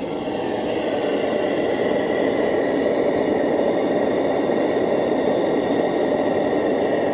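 Paraffin blowlamp burning steadily as it preheats the glow head of a Lanz Bulldog tractor, the engine not yet started: an even rushing flame noise that grows louder over the first second or so and then holds.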